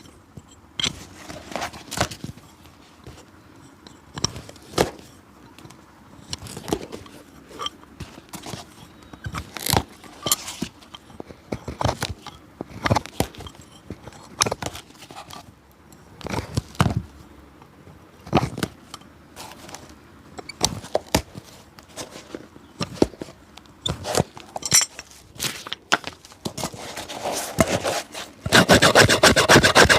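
Hand tools working on an old leather shoe: scattered scrapes, taps and clicks. Near the end, a steady rasping rub begins, like filing or sanding the sole.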